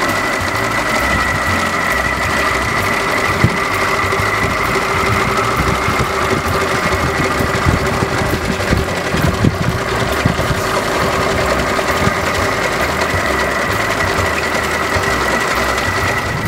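1930 Lincoln Model L's flathead V8 engine idling with a steady mechanical clatter and a constant high whine over it.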